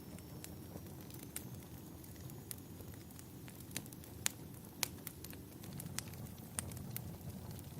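Wood fire burning in a fireplace, crackling with scattered sharp pops over a low steady rumble. The two loudest pops come a little past the middle.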